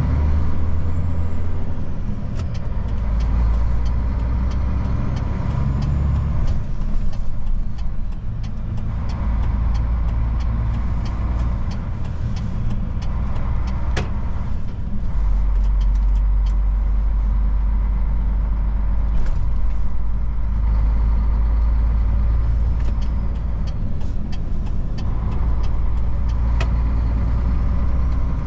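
Old Mercedes truck's diesel engine running while driving, a deep drone that shifts with the drive and grows heavier about halfway through, with scattered sharp clicks and rattles.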